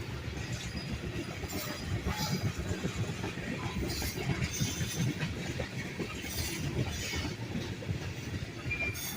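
Loaded and empty freight cars of Norfolk Southern train 11K rolling slowly past, steel wheels rumbling and clattering on the rails, with short high hissing or squealing flares every second or two. The train is losing speed as it labours up the grade.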